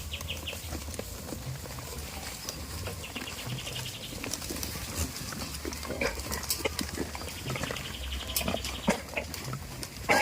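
Goats in a pen: scattered knocks and rustling with short low grunting calls, and a louder call right at the end. A rapid high rattling trill comes twice, at about three and eight seconds in.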